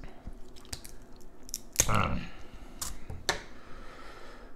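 Close-miked chewing of crab meat: wet mouth and smacking sounds with scattered small clicks, and a louder one about two seconds in.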